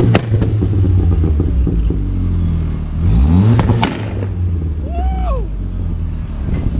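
Turbocharged 1.8T four-cylinder of a stage 2 tuned Mk4 VW Golf GTI with a stainless turbo-back exhaust, revved against its two-step launch limiter: a sharp crack just after the start, the revs climbing again about three seconds in with two more cracks, then settling back. Loud enough that it leaves the listeners' ears ringing.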